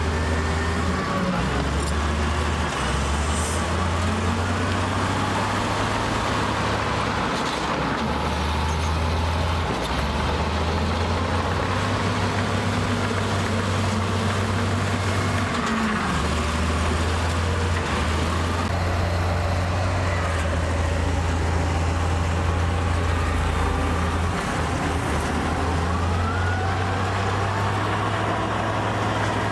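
Heavy diesel earthmoving machinery running: a steady low engine drone that shifts up and down in pitch every few seconds as the engine works under changing load, with fainter rising and falling whines above it.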